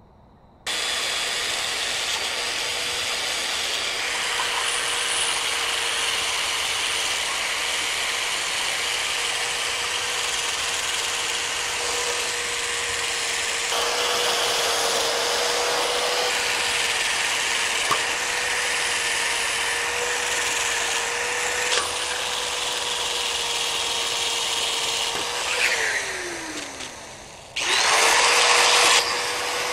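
Handheld power tool grinding rust out of the brake caliper bracket's pad-slide grooves, its motor running steadily under a gritty grinding hiss. Near the end the motor winds down with falling pitch, then starts again, briefly louder, and runs on.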